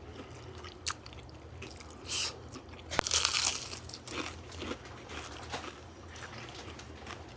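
Crunchy food being bitten and chewed close to the microphone: a few crisp crunches, the loudest about three seconds in.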